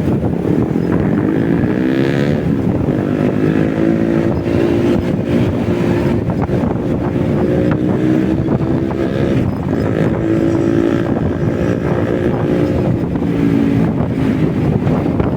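Motorcycle engine running under way, its pitch rising and falling as the bike speeds up, shifts and slows, with wind rushing over the microphone.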